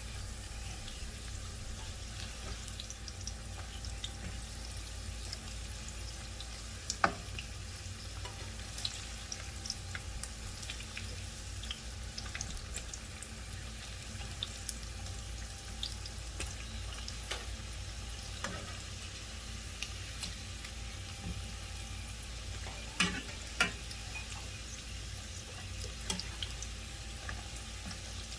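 Chicken empanadas frying, a steady sizzle with scattered crackles and pops. A few sharper clicks stand out, about a quarter of the way in and twice near the end.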